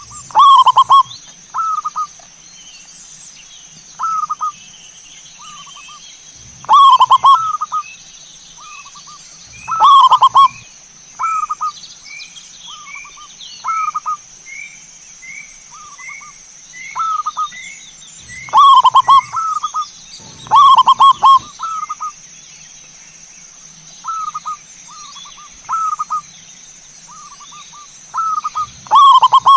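Zebra doves (perkutut) cooing: short soft coos alternate every second or two with louder rolling multi-note phrases. Midway, a faint run of quick chirps from another small bird is heard, over a steady high-pitched tone.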